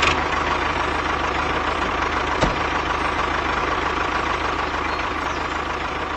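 Tractor engine idling steadily, with a regular low chugging pulse and a single sharp knock about two and a half seconds in.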